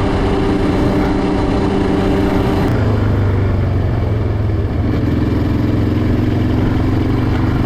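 Yamaha Raptor 700R's single-cylinder four-stroke engine running while the ATV is ridden along. Its pitch drops suddenly about three seconds in and then holds steady at the lower note.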